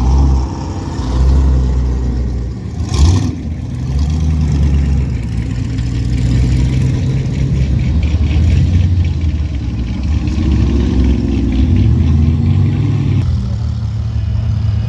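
A car engine idling with a low, steady note, lightly revved twice so that its pitch rises briefly, around four seconds in and again later for a few seconds before dropping back. One short, loud pop comes about three seconds in.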